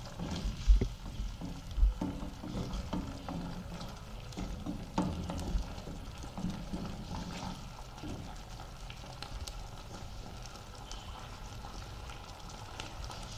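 Chicken pieces sizzling in ketchup sauce in a frying pan while a wooden spatula stirs and scrapes through them, knocking against the pan a few times in the first five seconds. After that the sizzling goes on, quieter.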